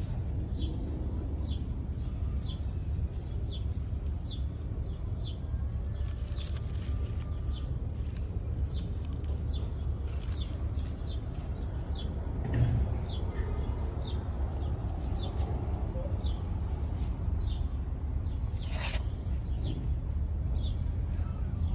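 A bird chirping over and over, about two short high chirps a second, over a steady low rumble. There are a few brief rustles and a dull knock about halfway through.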